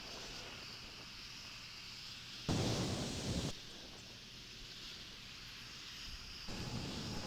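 Wind blowing on an outdoor nest-camera microphone, a steady rushing noise, with a louder stretch of about a second starting two and a half seconds in that begins and ends abruptly.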